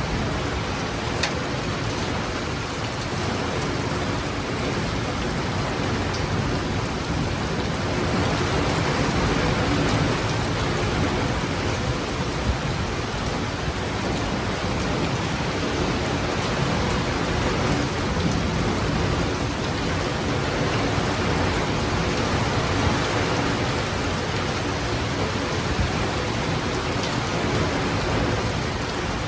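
Heavy rain pouring steadily in a sudden thunderstorm downpour, with a few sharp ticks of drops striking something hard.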